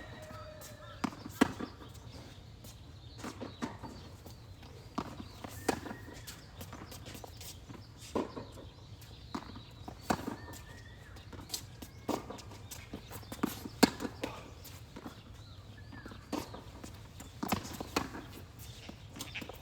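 Tennis rally: racquets striking the ball and the ball bouncing on the court, sharp hits every second or two, with footsteps between them.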